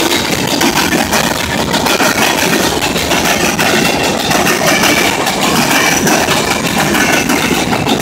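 Freight train hopper cars rolling past close by: steady loud noise of steel wheels on rail, with many clicks and clanks as the wheels cross the track crossings.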